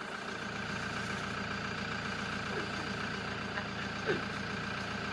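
Car engine running steadily, heard from inside the cabin, with two brief faint squeaks in the second half.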